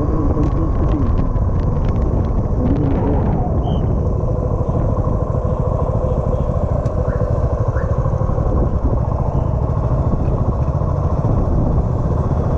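Motorcycle on the move: engine running under a steady rush of road and wind noise.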